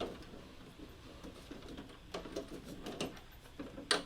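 Light clicks and rattling as screws are driven into a plastic model kit's leg parts, with one sharper click near the end.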